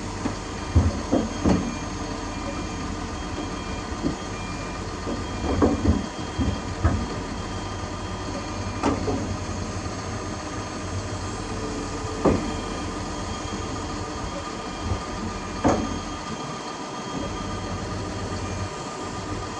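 Heavy diesel machinery running steadily, with loud metallic clanks every few seconds.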